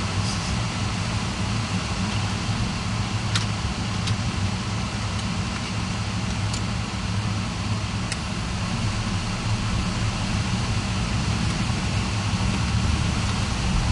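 A car driving, with a steady low rumble from the engine and the road, and a few faint clicks now and then.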